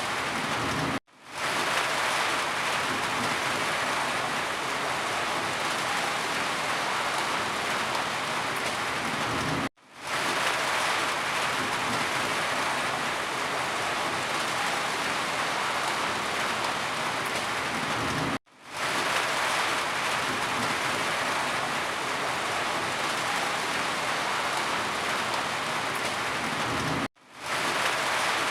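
Steady heavy rain falling. About every nine seconds the sound drops out for a moment and fades back in, the seam of a looped recording.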